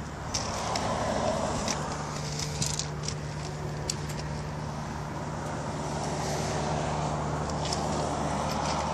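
Kawasaki Vulcan 1500 Classic's V-twin engine idling steadily. A few light clicks sound over it.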